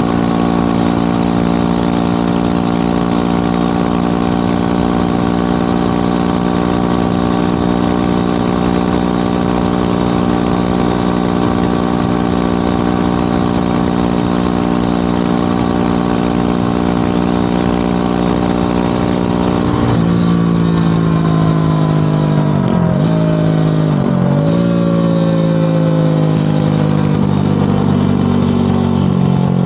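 Motorcycle engine running at a steady pitch while cruising. About two-thirds of the way through, the revs dip twice briefly, then the pitch falls as the bike slows.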